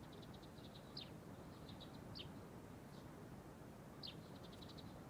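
Faint birdsong: short chirps, a few sharper downward-sliding chirps among runs of quick pips, over a quiet background hiss.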